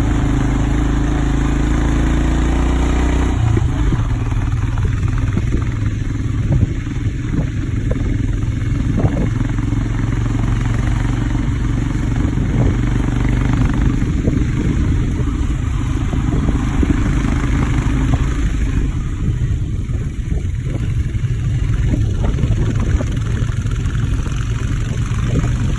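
Royal Enfield motorcycle engine running while being ridden. The engine note changes about three seconds in, from a steady drone to a rapid pulsing beat.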